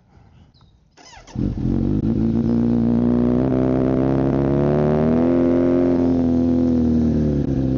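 Kawasaki Z900's inline-four engine cranked over by the starter and catching about a second and a half in, then idling through a full M4 exhaust. The idle climbs a little, holds high and drops back down near the end, typical of a fast idle just after a start.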